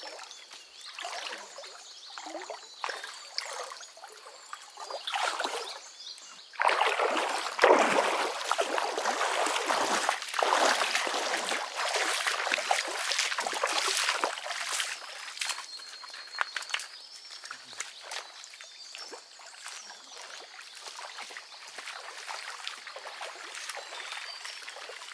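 Water splashing and trickling in irregular bursts. It gets much louder about a quarter of the way in, stays busy for around eight seconds, then settles to a quieter steady trickle.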